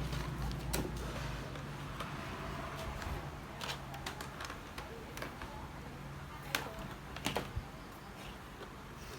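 A few scattered sharp clicks and taps over a low steady hum that drops away after the first second or so.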